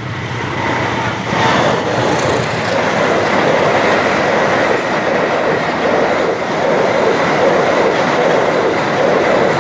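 Train passing over the level crossing: a loud steady rumble of wheels on rail with a regular clickety-clack.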